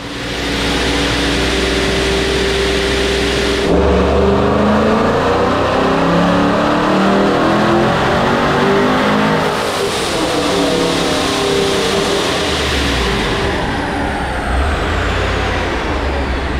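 ProCharged, cammed 5.7 Hemi V8 making a full-throttle pull on a chassis dyno. The engine note climbs steadily for about six seconds, then falls away as it coasts down, and a high whine winds down near the end.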